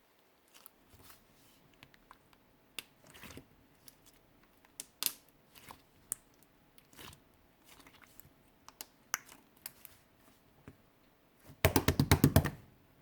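Clear slime being pressed and squished by hand, giving scattered sticky clicks and small air-bubble pops, then a quick run of about ten loud pops near the end.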